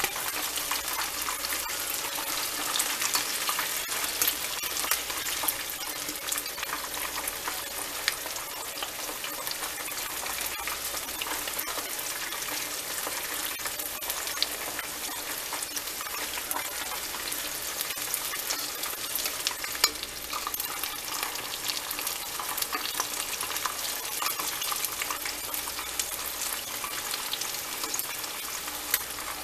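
Chicken wings deep-frying in hot oil in a large pot: a steady, dense crackling sizzle. Now and then a sharper tap of a metal utensil in the pot as the pieces are turned.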